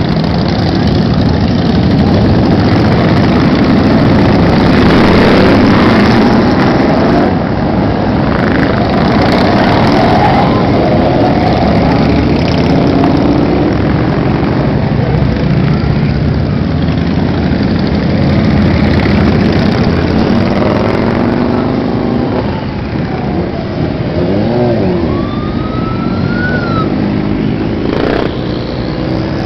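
A long column of motorcycles riding past, many engines running together, with individual bikes revving up and down over a steady rumble.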